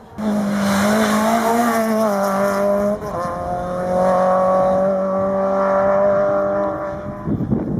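Rally car's engine running hard at high revs, holding a nearly steady pitch. There is a brief break about three seconds in, like a gear change, and the sound fades near the end.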